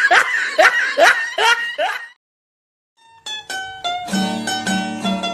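A comedy laughing sound effect, in short rising 'ha' pulses, ends about two seconds in. After a second of silence, a jaunty plucked-string comedy music cue starts, with quick picked notes and a bouncing bass line.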